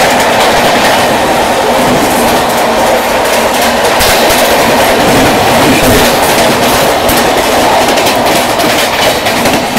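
Two passenger trains running side by side at speed, heard from one of the moving coaches: a loud, steady rush of wheels on rails and wind, with irregular clacks over the rail joints that grow more frequent from about four seconds in.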